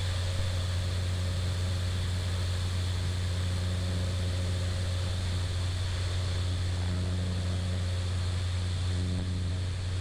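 Cessna 208 Caravan's single Pratt & Whitney PT6A turboprop and propeller running steadily at low power while taxiing to parking, a constant deep drone with a steady hum above it.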